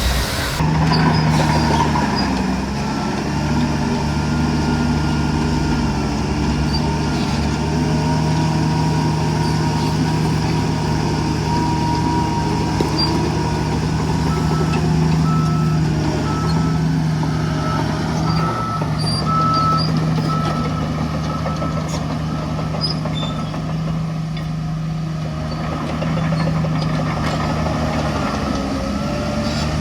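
Heavy diesel engine of earthmoving machinery running steadily under load. About halfway through, a reversing alarm beeps for several seconds, about one beep a second.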